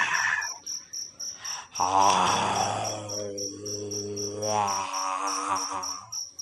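A deep, drawn-out moan imitating a genderuwo ghost, held on one low pitch for about three seconds, followed by a wavering higher wail. Under it, crickets chirp steadily, several chirps a second.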